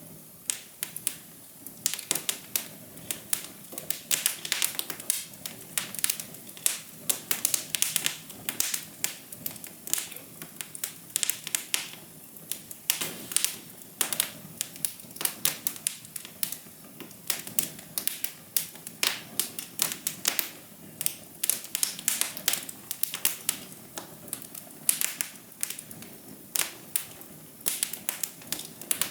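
Wood fire crackling: a steady run of sharp, irregular pops and snaps over a soft hiss.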